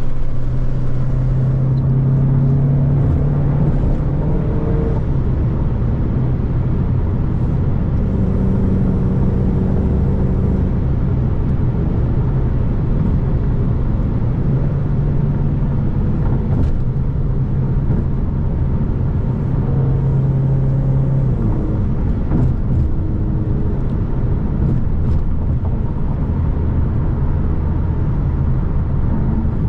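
Car engine drone and road noise while driving at a steady speed, the engine note holding and then shifting pitch several times as the revs change.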